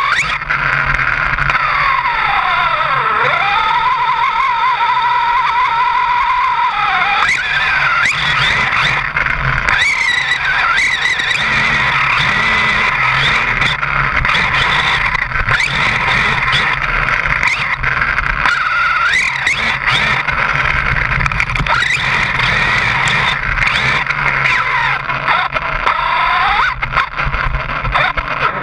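A truck driving, picked up by a camera mounted on it. Its engine runs loud under steady road and wind noise, the pitch falling and rising as it changes speed, with frequent knocks and rattles throughout.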